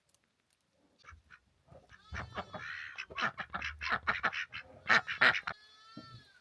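Domestic waterfowl calling: a quick run of short quacking calls, loudest about five seconds in, then one longer drawn-out call near the end.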